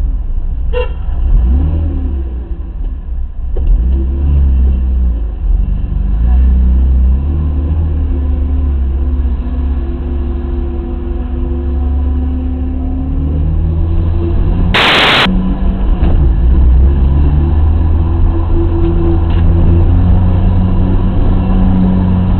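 BMW E30's 2.0-litre M50B20 inline-six running while the car drives slowly, with road rumble, heard from inside the cabin; the engine note rises and falls with the throttle. A brief, loud rush of noise cuts in about fifteen seconds in.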